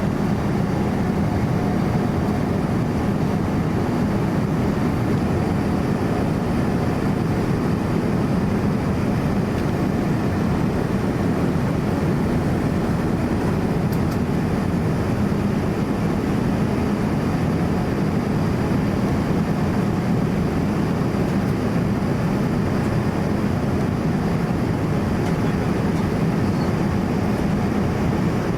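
Steady cabin noise of a Boeing 787-9 Dreamliner in flight: a constant low rush of engine and airflow heard from inside the cabin, with a faint thin high tone over it.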